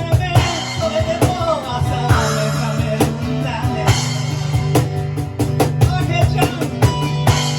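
Live rock band playing: frequent drum kit hits and guitar over a steady low drone, with a wavering voice or melody line above.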